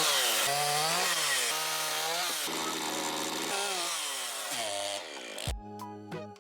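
Makita DCS5121 50 cm³ two-stroke gasoline chainsaw revving up and down repeatedly, its pitch rising and falling every second or so. The engine fades out near the end and music begins.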